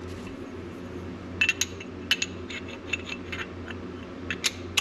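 A quick run of light clicks and clinks, about a dozen over three seconds, from handling aluminium soft-bait injection molds and tools, over a steady low hum.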